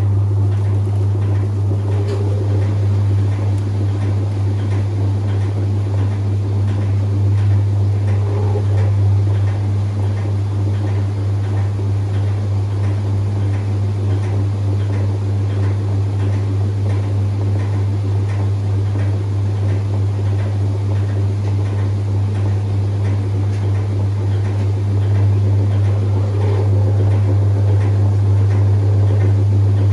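Whirlpool 3RLSQ8033SWD top-loading washing machine running steadily near the end of a delicate cycle, a loud, even motor hum with a churning noise over it.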